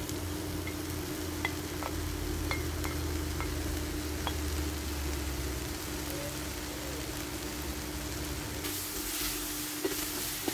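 Onions, oyster mushrooms and carrot sticks sizzling in an enamelled pot on an induction cooker, over a steady hum. A few light clicks come in the first few seconds as the carrots settle, and the sizzling gets louder near the end as a wooden spoon stirs the pot.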